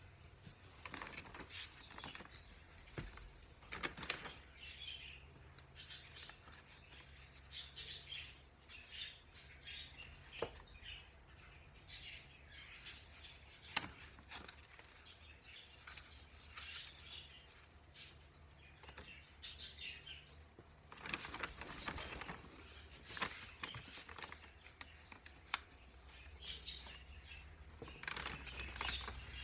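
A pet baby bird chirping faintly in short, scattered notes, mixed with a few light taps and brief rustles.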